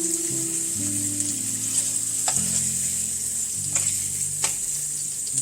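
Hot oil and butter sizzling steadily in a frying pan, with three sharp clicks in the second half. Soft background music of low held notes plays underneath.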